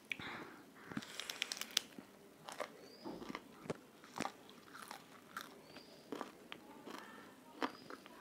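Close-miked eating: crisp bites and crunchy chewing of a raw green leaf, a run of sharp crunches about a second in, then scattered crunches and wet mouth sounds.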